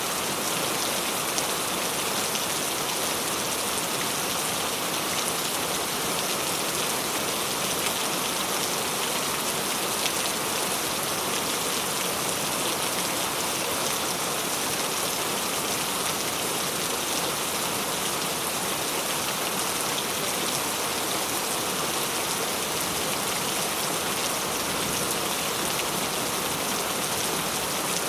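Tropical rain falling steadily, an even hiss made of countless individual drop impacts, with no change in strength.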